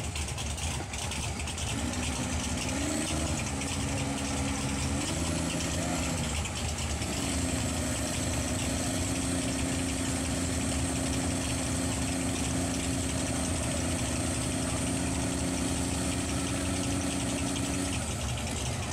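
Off-road truck engine running steadily, its pitch rising briefly about three seconds in and then holding one steady note.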